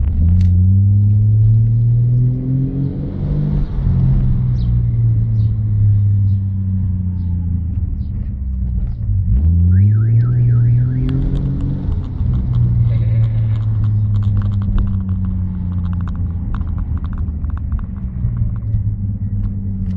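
Mk3 Toyota Supra Turbo's turbocharged inline-six heard from inside the cabin, pulling hard with its pitch rising at the start. It drops briefly about nine seconds in, then climbs again. A parked car's alarm warbles briefly about ten seconds in, set off by the car's noise.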